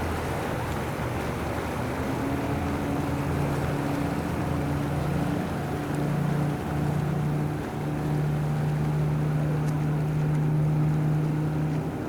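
Outboard engine of a Robalo dual-console boat running at a steady pitch, its tone coming up about two seconds in and holding. It sounds over a constant rush of wind and water.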